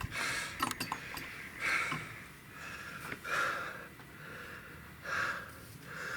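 A man breathing hard, with four heavy exhalations about a second and a half apart: out of breath from a hard bike ride that has just ended.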